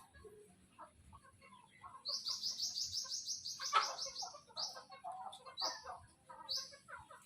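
A small bird chirping: a fast run of about eight or nine high chirps a second, lasting a couple of seconds, then three single chirps about a second apart, over scattered lower calls.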